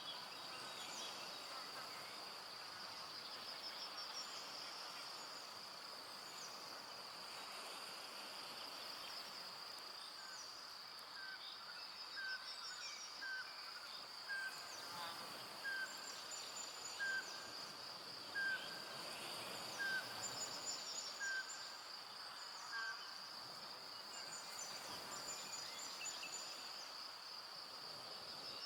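Evening forest ambience: a steady high-pitched insect trill, with a bird repeating a short note about once a second for some ten seconds midway through and a few higher chirps now and then.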